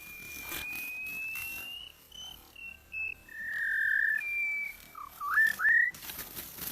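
A series of clear whistled notes: a long, slowly rising tone, a few short notes, a held lower tone, then three quick upward-hooked notes near the end.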